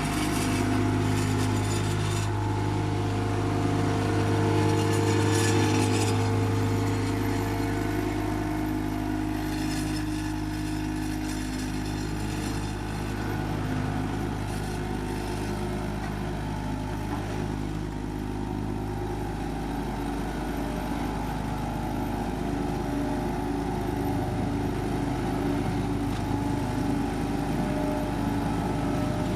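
Diesel engines of heavy road-paving machinery running steadily, with the deep engine note easing off about two-thirds of the way through.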